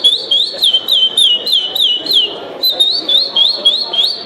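Man whistling an imitation of a curió (chestnut-bellied seed finch) song: a fast run of clear, high whistled notes, about three or four a second, sliding upward at first and then dropping in pitch, a brief break a little past halfway, then more rising notes.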